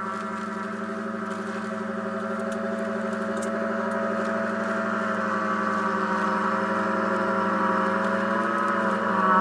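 John Deere X738 garden tractor engine running steadily while driving its front-mounted snowblower, growing gradually louder, with a brief dip in pitch right at the end.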